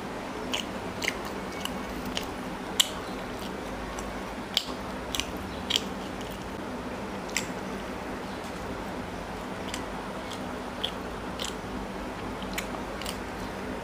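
A person chewing paratha and chicken curry close to the microphone: irregular wet smacks and clicks, the sharpest about three seconds in, over a steady low hum.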